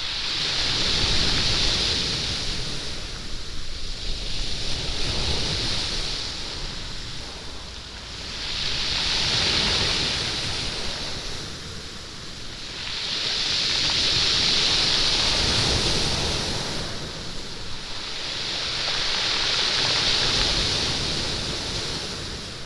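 Waves washing up a pebble beach, the surf rolling and rattling the stones. The wash swells and ebbs about every five seconds, five surges in all.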